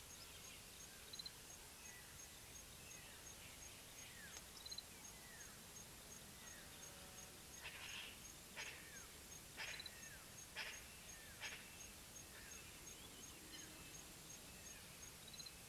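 Faint quiet outdoor ambience with birds calling: repeated short downward-sliding whistles, a few brief high chirps, and a cluster of sharper calls around the middle, over an evenly paced faint high ticking.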